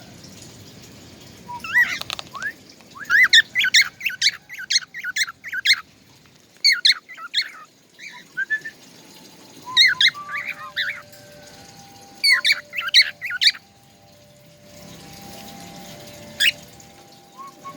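A songbird singing in bursts of rapid, high chirps and trills, about five phrases each lasting one to two seconds with short pauses between, and faint steady whistled notes underneath in the second half.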